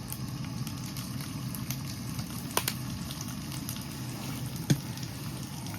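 Chopped vegetables starting to sizzle and crackle in a little oil in a heating skillet, over a steady low hum. Two sharp clicks come about two and a half seconds in and near the end.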